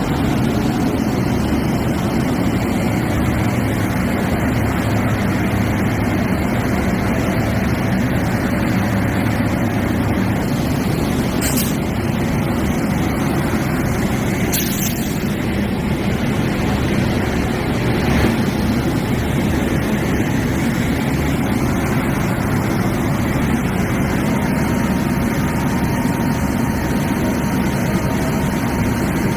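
Railway locomotive running steadily with a loud, even low rumble, with two brief sharp clicks near the middle.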